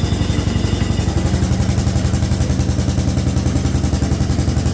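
Allis Chalmers B210 garden tractor's engine running at a steady speed, with an even, rapid beat.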